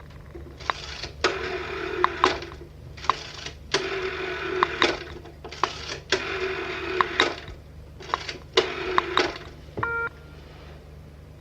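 Old telephone's mechanical bell ringing in repeated rings of about a second each, with short gaps between them. The ringing stops near the end and a short single tone sounds, over a steady low hum.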